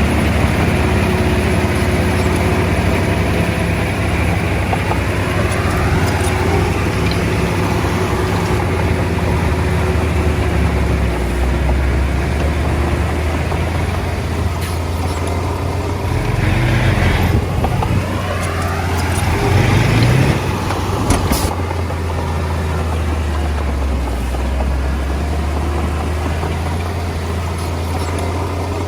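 Komatsu D20A bulldozer's diesel engine running steadily at work, revving up and down in a louder stretch about two thirds of the way through, with one sharp metallic clank just after.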